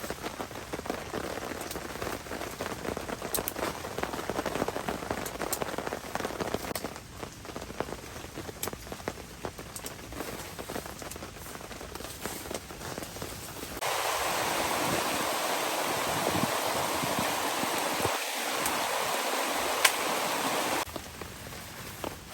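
Rain falling steadily, with many single drops tapping on a surface. About two-thirds of the way through, a louder, even hiss takes over for about seven seconds, starting and stopping abruptly, before the lighter patter returns.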